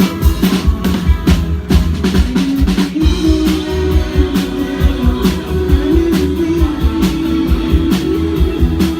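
Live rock band playing an instrumental passage: a drum kit keeping a steady beat under bass and guitars.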